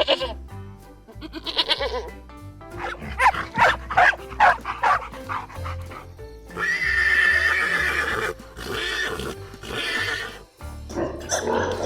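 A series of farm-animal calls, short cries one after another, with a longer, noisier call in the middle, heard over steady background music.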